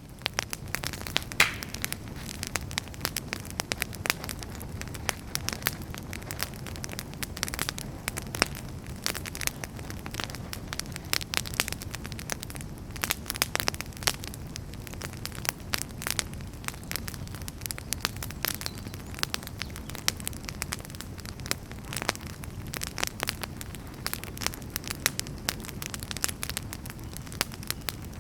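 Wood fire in a fireplace crackling, with many irregular sharp pops over a low steady rumble.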